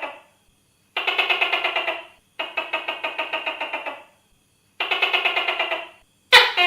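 Tokay gecko calling: four rattling, pulsed bursts of about a second each, then a sharper, louder call with a falling pitch near the end.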